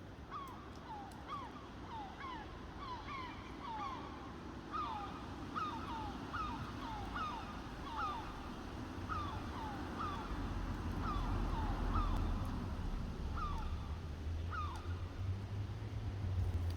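Young crows calling repeatedly with short, downward-sliding calls, several a second at times. A low rumble comes up about ten seconds in.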